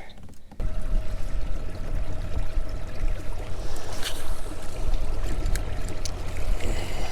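Loud, fluttering low rumble of microphone noise from the camera and mic being jostled, starting suddenly about half a second in, with a faint steady electrical hum underneath. It is the distorted clipping that a faulty wireless receiver connector causes whenever the camera shakes.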